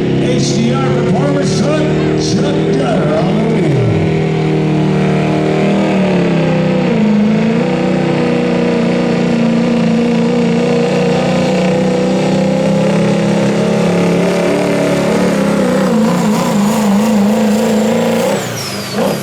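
Turbo-diesel pickup truck engine running flat out under heavy load while pulling the sled. It sags in pitch briefly about a third of the way in, climbs back, and drops off sharply near the end as the throttle comes off.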